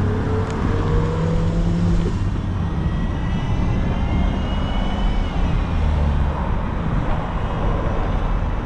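Road traffic noise heard from a bicycle: a steady rush of passing engines and tyres, with a faint rising whine over the first couple of seconds and a thin high whine a few seconds in.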